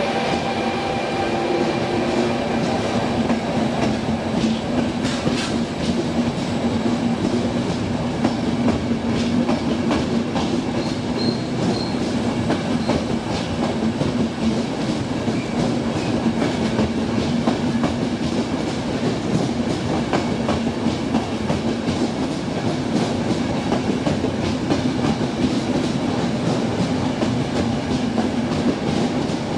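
Train running steadily along the rails: a continuous rolling noise with a low hum and frequent clicks of the wheels over rail joints.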